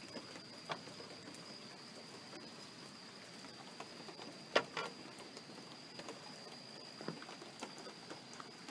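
Light rain: a faint steady hiss with scattered drips landing close by, the loudest about four and a half seconds in, over a steady high-pitched tone.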